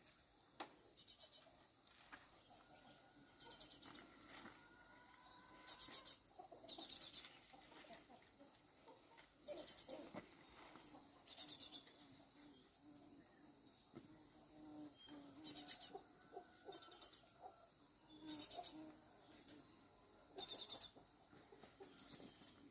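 Insects calling: short, high, pulsing trills repeat every second or two over a steady high insect drone.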